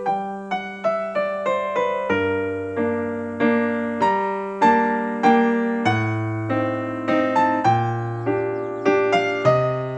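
Background piano music: a slow melody of struck notes, each fading away, over low bass notes that change every couple of seconds.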